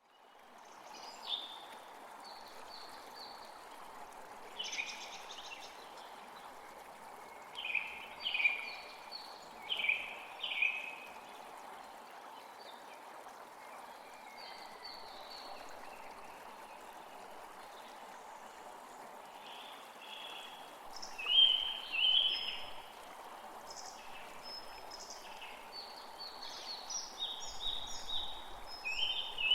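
Birds calling in short, repeated chirping phrases over a steady rush of flowing water. The calls come in clusters, loudest about a third of the way in and again past two-thirds.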